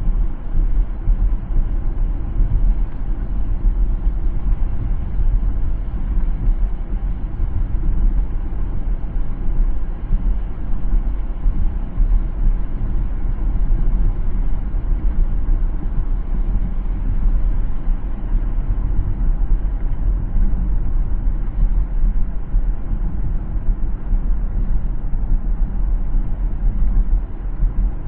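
Car driving along a city road: steady low rumble of road and tyre noise, with no distinct events.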